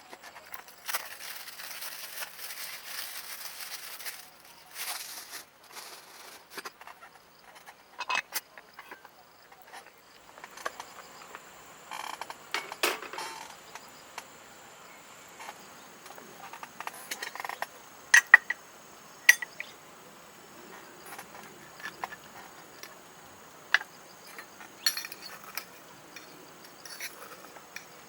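Campfire cooking sounds: scattered ticks and clicks, a short hiss in the first few seconds, and a few sharp metallic clinks of utensils and cookware about two-thirds of the way in, over a steady high insect drone that sets in about ten seconds in.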